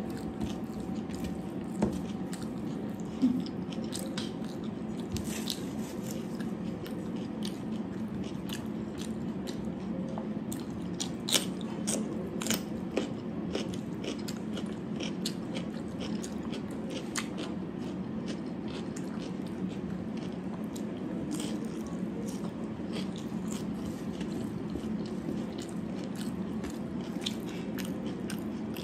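A person chewing and eating, with many small wet mouth clicks and a few louder, crisper bites near the middle, over a steady low background hum.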